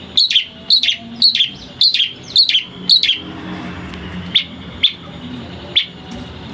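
Long-tailed shrike (cendet) calling: a run of six short harsh calls, each dropping in pitch, about two a second, then three more spaced further apart. A steady low hum runs underneath.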